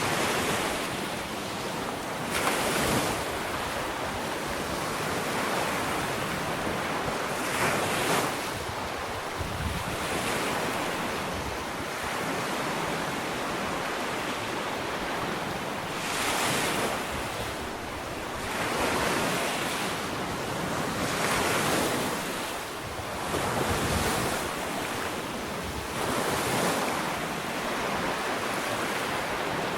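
Small ocean waves breaking and washing up a sandy beach, a steady hiss of surf swelling every few seconds as each wave comes in, with some wind on the microphone.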